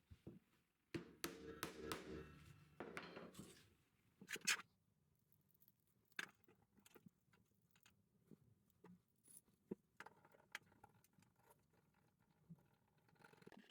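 Faint bench work on angle grinder parts: a short stretch of scraping and rustling, then scattered clicks and light taps of metal parts and hand tools. The grinder itself is not running.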